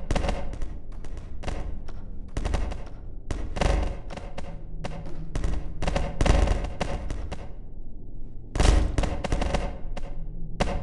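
An irregular series of sharp knocks and clatters, several a second in clusters, with a short pause about eight seconds in.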